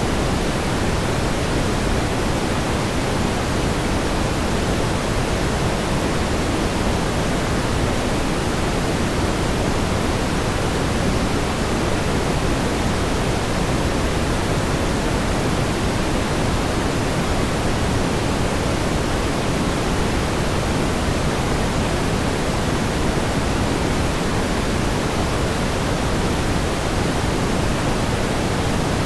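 Steady pink noise: an even, unbroken hiss weighted toward the low end, with no changes or events.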